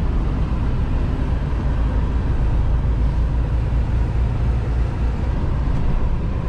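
Diesel engine of a 2021 Freightliner Cascadia semi truck running steadily, a constant low rumble heard from inside the cab.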